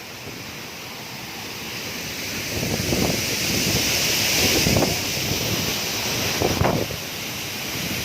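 Waterfall rushing close by, a steady hiss that swells over the first few seconds, with wind and spray buffeting the microphone in three low gusts.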